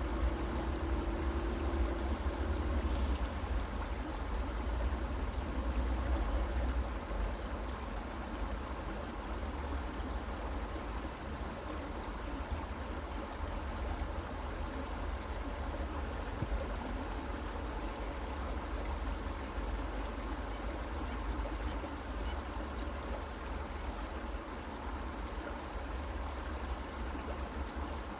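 Stream water running and trickling steadily, with a steady low rumble underneath.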